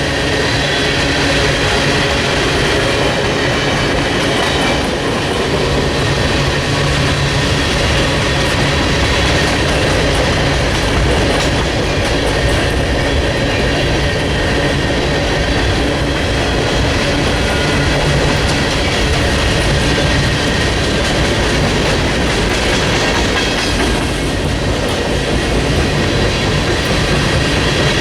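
A train rolling steadily past: railroad cars running over the rails with a clickety-clack, over a steady low engine hum.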